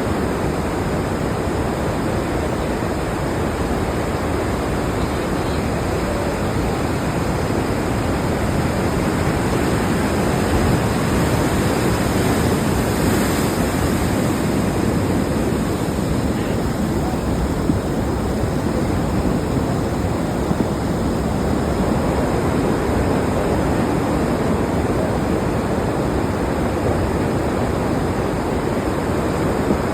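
Muddy floodwater rushing down a creek bed in a flash flood, a steady, loud roar of water.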